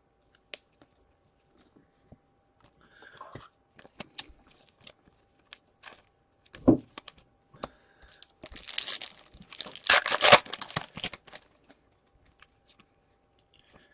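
Foil wrapper of a 2017-18 Upper Deck Series 1 hockey card pack being torn open and crinkled. The loudest tearing comes about nine to eleven seconds in, with scattered clicks of cards being handled and a single knock near the middle.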